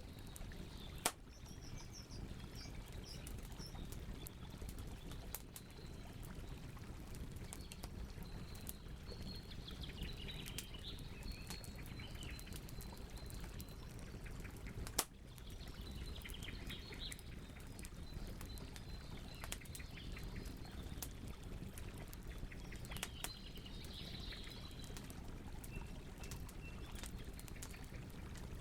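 Campfire crackling and popping over a steady low rush of the flames, with two sharp pops, about a second in and about halfway through. Small birds chirp and twitter in the background.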